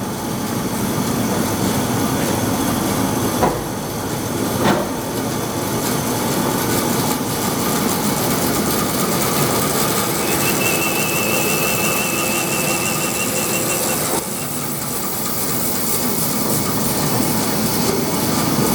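Doall 3613 36-inch vertical bandsaw running in its high speed range, a steady mechanical whir of the blade and drive. Two sharp knocks come a few seconds in, and a thin wavering whistle rises above the noise for a few seconds in the middle.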